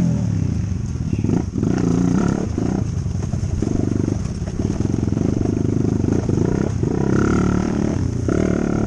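Dirt bike engine running under way, its pitch rising and falling with the throttle and dropping off briefly every second or so.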